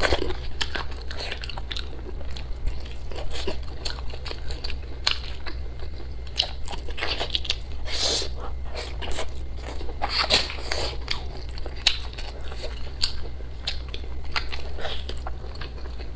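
A person biting and chewing braised pork ribs and pig intestines: a steady run of crisp clicks and crunches.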